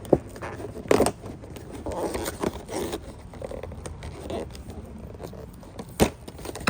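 A new replacement air filter being unpacked by hand: the packaging rustles and tears, with a few sharp knocks, one about a second in and one about six seconds in.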